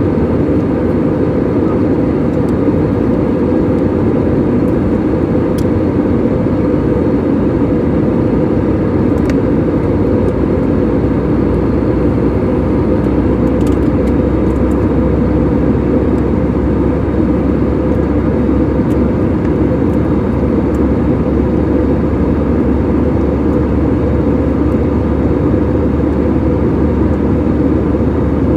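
Steady drone of jet engines and rushing air heard inside an airliner cabin in flight.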